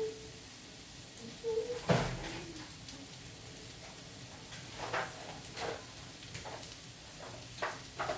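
Meat, onion and zucchini frying in oil in a pan on a gas burner: a steady sizzle with scattered crackles and pops. A louder knock comes about two seconds in.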